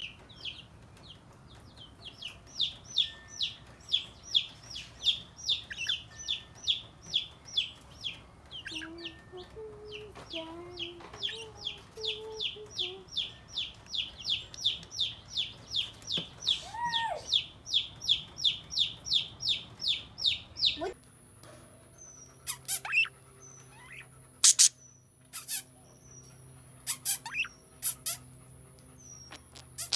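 A parrot calling in a fast, even run of short high chirps, about two or three a second. About two-thirds of the way in the sound changes suddenly to a few louder, sharper calls spaced apart, over a steady high whine and hum.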